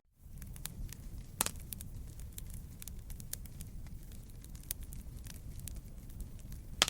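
Wood fire crackling in a fireplace: a steady low rumble of burning with many small crackles and two louder pops, one about a second and a half in and one near the end.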